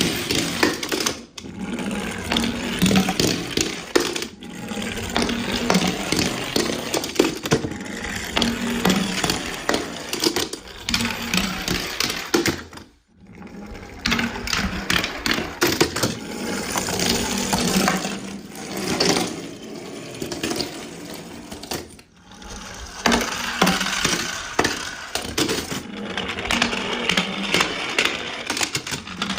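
Small toy cars rattling and clattering as they roll down a slide and land, a dense run of small clicks and knocks in several stretches broken by short gaps.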